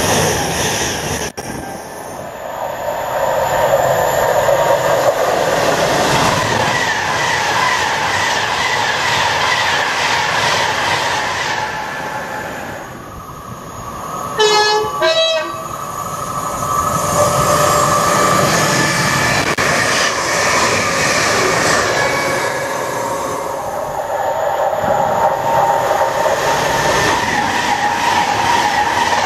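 Electric express trains passing the platform at speed, a rushing rumble of wheels on rail that swells, fades and swells again. About halfway through, an approaching train sounds a two-tone horn, two short notes in quick succession.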